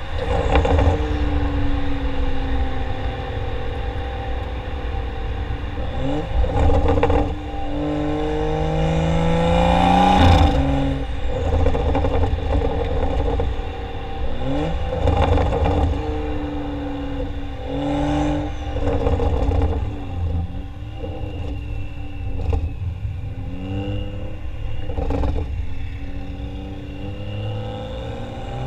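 Exhaust of a stage 2 tuned BMW 335i's turbocharged 3.0-litre straight-six, with a catted downpipe and modified factory muffler, pulling up through the revs and dropping back several times. Its pitch climbs steadily and falls off sharply, with lower, steadier running in between.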